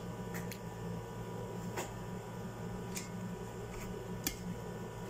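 Mouth sounds of someone eating paratha flatbread: a handful of short, sharp clicks and smacks while he chews, the sharpest a little over four seconds in, over a steady low room hum.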